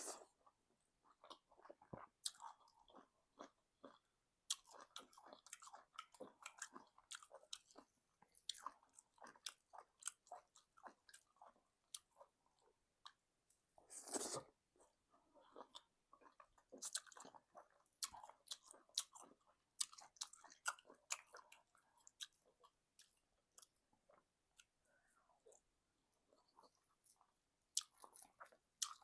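Quiet, close-miked chewing and mouth sounds of a person eating egusi soup with semolina: irregular wet clicks and smacks, with one louder sound about halfway through.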